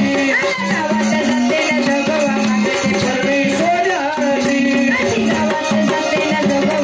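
Marathi devotional folk music in the vaghya-murali style: a sustained melody line moving in steps over a steady beat of drums and jingling rattles.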